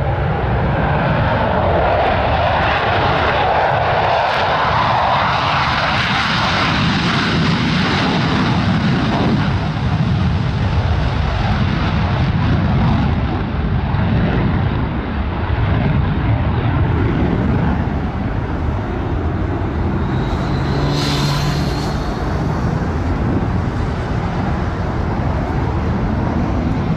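Aircraft engine noise: a steady, loud rumble that goes on without a break.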